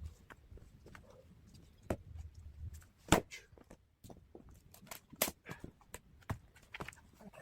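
Sharp wooden knocks of an axe striking firewood logs, with lighter clacks of wood in between. The loudest strike comes about three seconds in and another about two seconds later.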